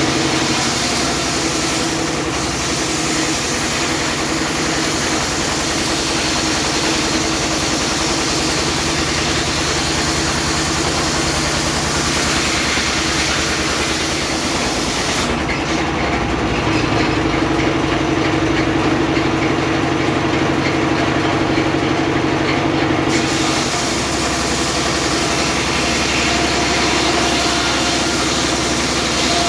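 Homemade circular sawmill running, a loud, steady machine hum with a high hiss over it. The hiss drops away for several seconds about halfway through, then comes back.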